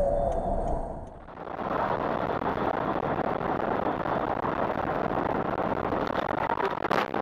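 Steady rushing road and wind noise of a moving car, starting about a second in after a cut, with one sharp bang near the end.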